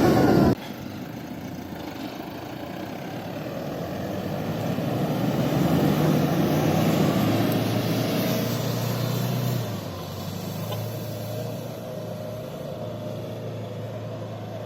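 Off-road 4x4 SUV's diesel engine working under load on a soft trail, building up over several seconds and then easing off about ten seconds in.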